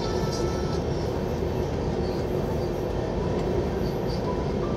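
Running noise of a moving passenger train heard from on board: a steady rumble.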